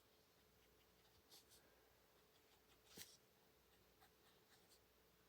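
Near silence with faint scratching of an alcohol marker's tip stroking over paper, and one sharper tap about three seconds in.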